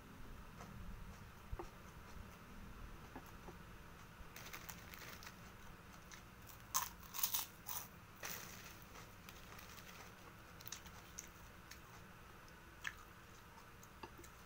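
Close-up chewing and eating sounds, with a cluster of loud, crisp crunches about seven seconds in as a kerupuk cracker is bitten.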